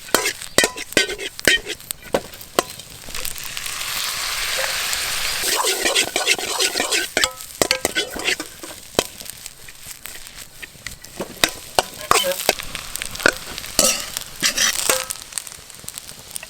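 Food frying in a pan over a campfire while a spatula stirs it, clacking and scraping against the pan. A louder stretch of sizzling comes a few seconds in, between many sharp clacks.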